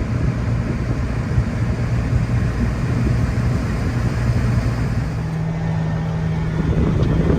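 Steady drone of a farm vehicle's engine and running machinery, heard from inside the cab, with a steady low hum joining about five seconds in.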